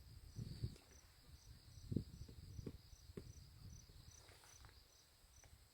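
Faint insect chirping: short high chirps repeating about twice a second, with a few soft low knocks in the first few seconds.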